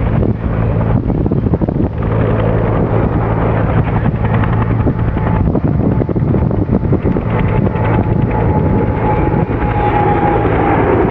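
Airbus A380's four turbofan engines roaring steadily in flight, a loud dense rumble with a low hum, and a faint steady whine joining in near the end.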